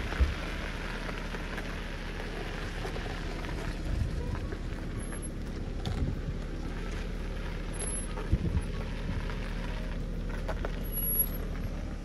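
BMW E39 525i's inline-six engine idling steadily in the cold, with a hiss of noise over it and a few soft knocks.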